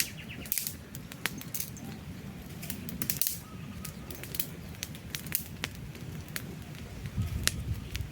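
Wood campfire crackling, with sharp pops and snaps scattered irregularly over a low steady rumble of burning logs.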